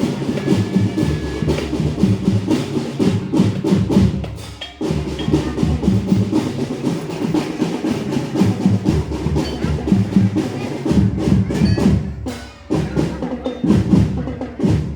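School marching drum band playing: a dense run of drum beats, with two brief breaks in the playing.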